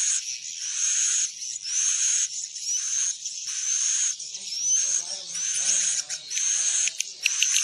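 Swiftlet lure call: swiftlets chirping in a buzzy, repeated call, about one rising chirp a second. This is the kind of recording played at a swiftlet nest house to draw the birds in to roost. A faint lower murmur comes in midway, and a few sharp clicks come near the end.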